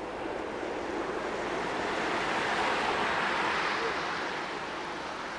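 Jet airliner engine noise, a broad roar that swells to a peak about three seconds in and then eases off.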